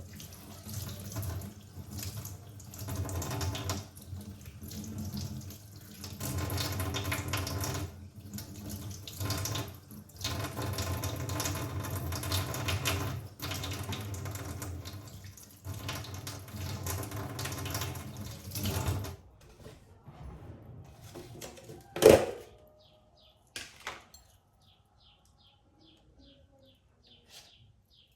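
Water running from a kitchen tap into a sink in stretches of a few seconds with short breaks, as something is rinsed under it, stopping about two-thirds of the way through. A single sharp knock follows, the loudest sound, then a few light clicks.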